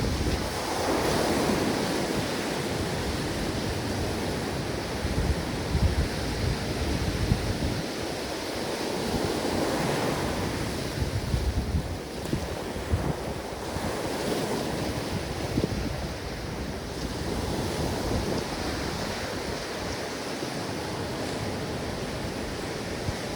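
Ocean waves breaking and washing on a beach, a continuous surf wash that swells and eases every few seconds, with wind rumbling on the microphone.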